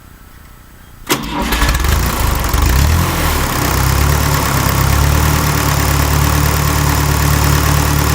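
Fiat 352C tractor's freshly rebuilt engine starting: it catches suddenly about a second in, runs up briefly and settles into a steady idle.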